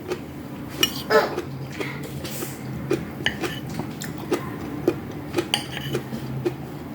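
Close-up eating sounds: scattered short clicks of cutlery against dishes, a few sharper than the rest, over a steady low hum.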